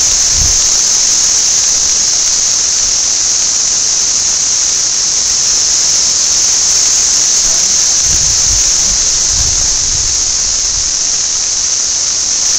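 Cicadas droning in chorus: a loud, steady, high-pitched buzz that never lets up. Some low rumbling joins it about eight seconds in.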